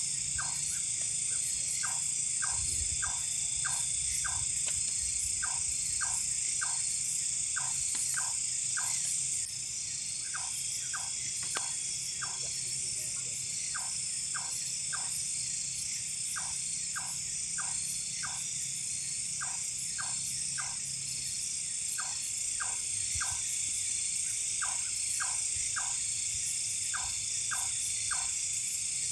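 Night-time forest chorus: a steady shrill drone of insects, with an animal call of short notes, three or four at a time, repeating every second or two. The high drone eases slightly about a third of the way through.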